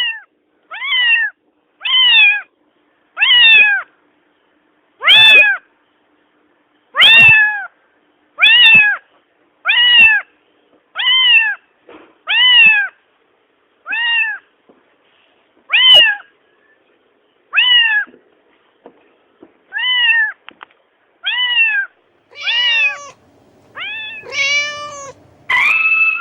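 Cat meowing over and over, about eighteen short meows each rising then falling in pitch, separated by silence. The last few calls near the end are lower and longer.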